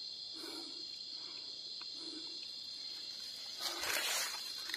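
Steady high-pitched chorus of crickets and other night insects in a forest. A brief rustling noise rises over it about three and a half seconds in.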